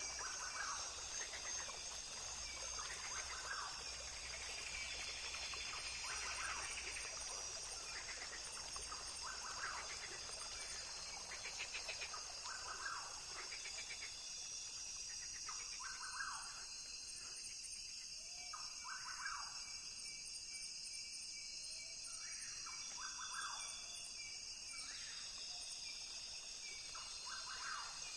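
Rainforest ambience: a steady high-pitched insect drone, with short animal calls repeating every second or two over it.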